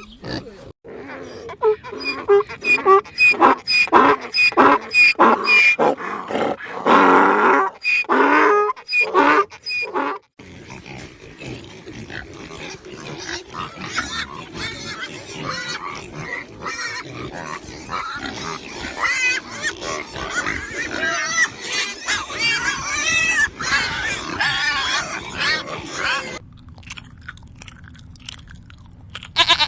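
Farm animals calling in several cut-together clips. The first ten seconds are a run of short, pitched calls about two a second. Then comes a denser stretch of overlapping calls, and it turns quieter near the end.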